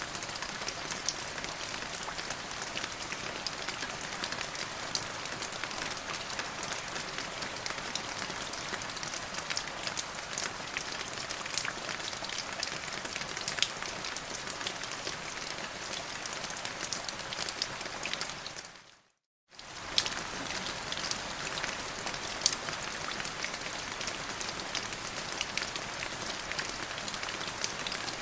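Steady rain falling, a dense hiss full of sharp individual drop ticks. About nineteen seconds in it fades quickly to silence and comes back abruptly half a second later, as at a loop or edit point.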